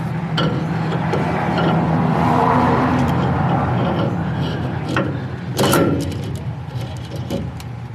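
Metal parts and hand tools clinking and knocking during pinion and yoke assembly on a rear differential, with a sharp knock about five and a half seconds in, over a steady low machine hum.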